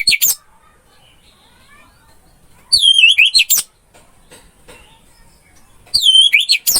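Orange-headed thrush singing: short phrases of falling whistles, each running into a quick burst of sharp notes, repeated about every three seconds. One phrase ends just after the start, another comes in the middle, and a third near the end.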